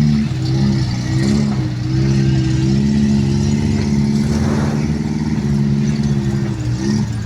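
Off-road 4x4 engine running at low revs, its pitch rising and dipping as the throttle is worked, with a change in the engine note near the end.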